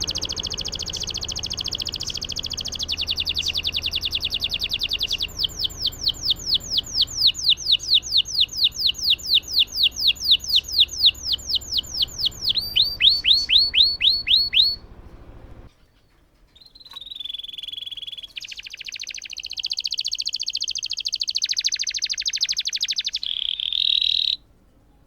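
Domestic canary singing a long rolling song: a fast trill, then a run of repeated sweeping notes at about four a second, then a few rising notes. After a short break, another trill phrase that stops abruptly near the end.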